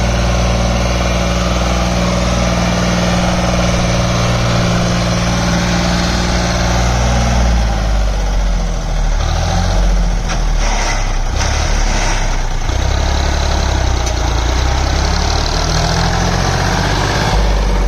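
Sonalika DI 35 tractor's diesel engine running under load. About eight seconds in its note drops and wavers unevenly, with a few clatters over the next few seconds, then it settles into a steady run again.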